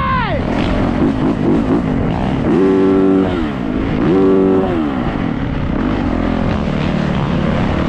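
Yamaha YZ450F four-stroke single-cylinder dirt bike engine revving up and down under riding load, with two held high-rev pulls in the middle that each drop off sharply.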